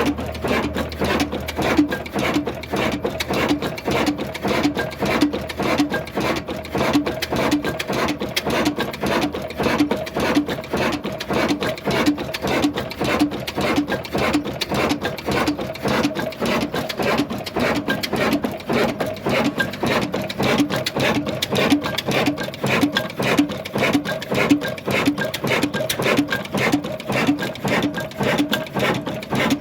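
Old Ruston Hornsby diesel engine running steadily, belted to a flour mill, with a regular beat about two to three times a second over a fast clatter.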